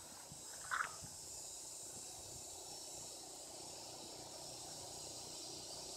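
Faint, steady chorus of insects, heard as a continuous high-pitched hiss, with one short chirp just under a second in.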